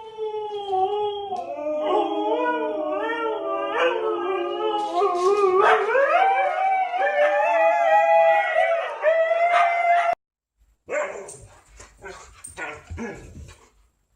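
Husky howling in long, wavering, pitch-bending howls for about ten seconds, then cut off suddenly. After a brief silence come a few short, sharp dog barks and yips.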